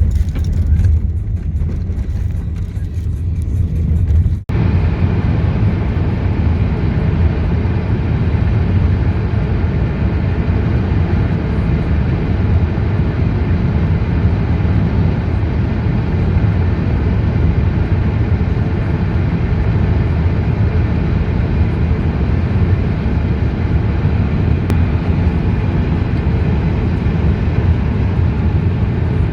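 Steady low rumble of a car driving along a road, with a brief cut-out about four and a half seconds in.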